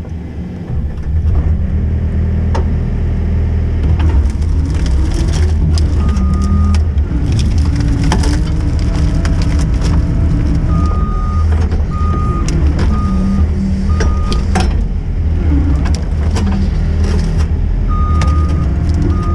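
Skid steer engine running hard under load, with its reversing alarm beeping on and off as it backs up, and sharp cracks and knocks throughout, plausibly from the machine working through wood and ground.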